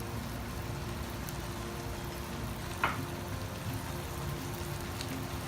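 Chicken, shrimp and bell peppers sizzling steadily in a frying pan, with one short clink about three seconds in.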